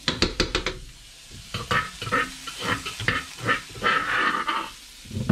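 Chopped chilies and garlic sizzling in hot oil in a nonstick wok, with a spatula stirring and scraping the pan in quick repeated strokes.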